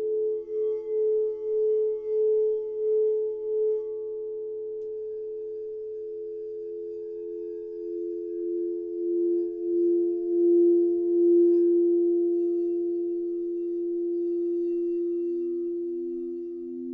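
Singing bowls held in long, near-pure tones that overlap, each pulsing with a slow wavering beat. The highest tone pulses at first and then steadies, a lower one swells to the loudest point about two-thirds through, and a still lower tone begins pulsing near the end.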